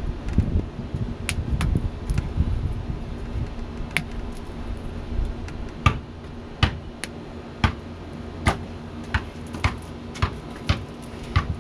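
Cutters snipping the tails off zip ties on hydraulic hoses: a string of sharp single clicks, roughly one to two a second, over some handling rustle near the start.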